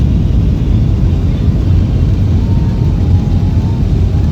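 Steady low rumble of engine and airflow noise heard inside the cabin of a Southwest Airlines Boeing 737 jet airliner. A faint thin tone wavers through it about halfway in.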